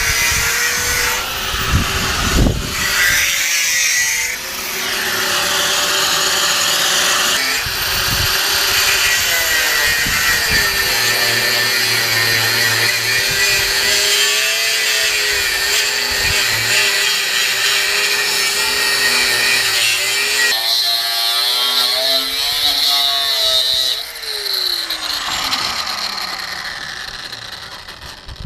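Power tool, most fittingly an angle grinder, cutting through rusted steel chassis, its motor whine dipping and recovering under load, with a few brief breaks in the first seconds. About 24 s in the cut stops and the motor winds down with a falling whine.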